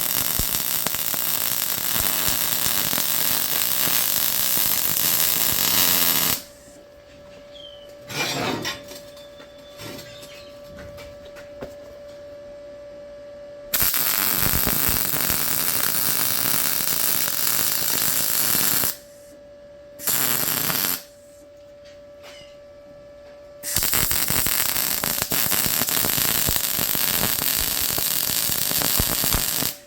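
MIG welding arc on mild steel with a steady crackle, laid in four runs: about six seconds, about five seconds, a brief tack, and about six seconds. Between the runs there is a steady hum.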